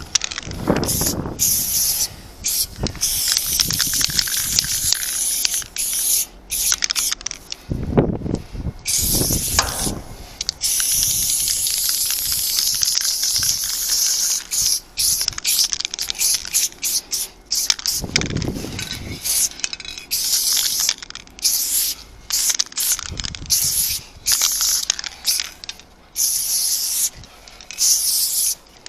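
Aerosol spray paint can hissing in bursts of varying length, short puffs and a few longer continuous sprays, as paint is laid down. Occasional lower thuds and rustles of handling mix in.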